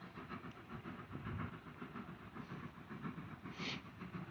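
A steam train running some distance off, faint and steady, with a brief hiss about three and a half seconds in.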